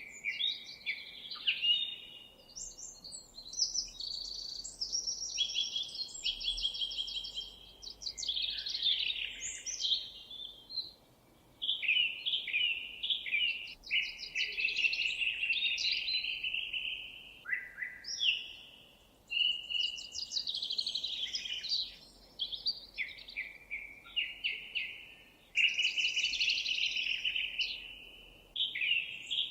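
Songbirds singing: a near-continuous run of chirps, quick trills and whistled notes, with brief pauses.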